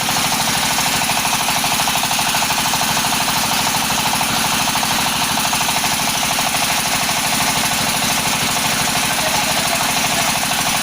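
Floating fish-feed pellet machine running steadily, with a fast, even pulse.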